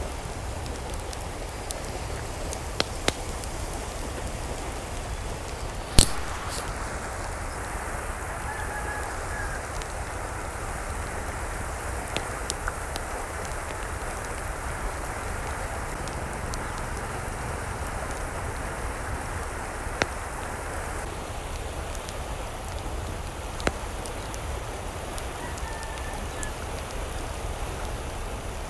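Steady rain, with occasional sharp taps of drops; the loudest tap comes about six seconds in. A couple of faint short calls come through, about nine seconds in and again near the end.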